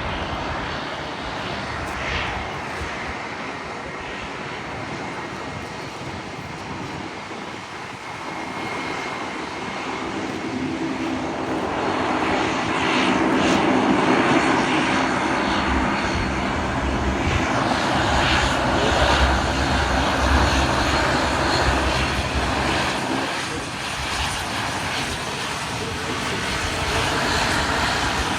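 Airliner's engines running at high power as it passes, building about ten seconds in, loudest for the next ten seconds or so, then easing slightly.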